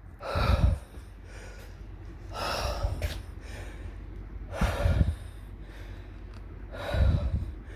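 A man breathing hard and gasping, four heavy breaths about two seconds apart: he is winded from the exertion of moving a refrigerator.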